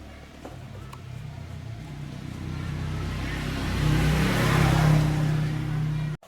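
Small lawn mower engine running and revving up, growing louder over a few seconds, then cutting off suddenly near the end.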